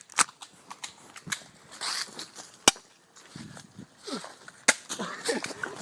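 Several sharp clicks and knocks at irregular intervals, the loudest about two and a half seconds in, with faint voices in between.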